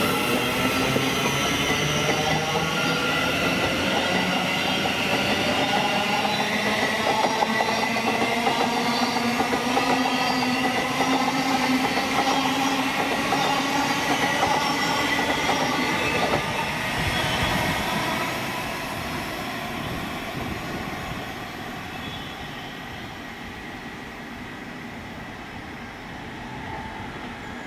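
Train running past on the rails, with a loud steady rumble and a whine of several tones slowly shifting in pitch, dying away after about 17 seconds.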